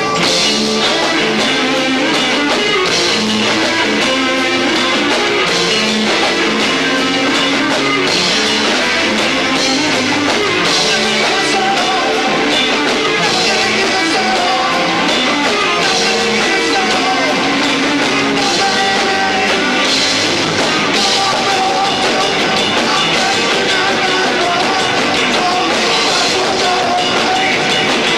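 A rock band playing live with two drum kits, bass, keyboards and guitar, loud and steady, heard through a camcorder's built-in microphone. A voice sings along at times.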